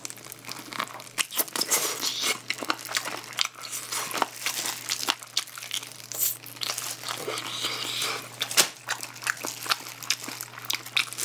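Close-miked eating of sauced fried chicken: repeated biting and chewing with many sharp crunches of the fried coating, and a plastic glove crinkling, over a steady low hum.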